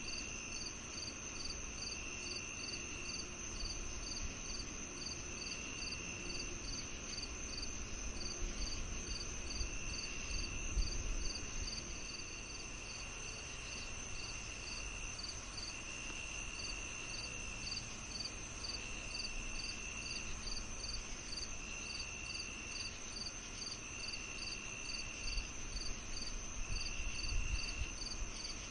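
Crickets and other insects calling together in a summer-evening chorus: a steady high trill, a regular high chirp pulsing a couple of times a second, and a lower trill that comes in spells of about a second every two or three seconds. Underneath runs a low rumble that swells twice, about ten seconds in and near the end.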